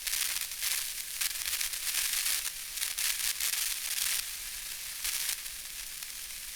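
A steady crackling hiss like static, rough and uneven, with the treble swelling and fading irregularly.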